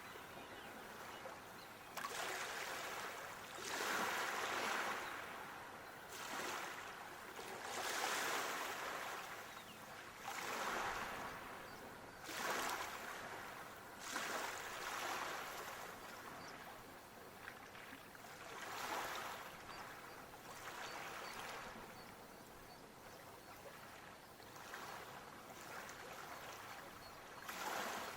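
Small waves washing in, a swell of rushing water every two to four seconds that fades between surges.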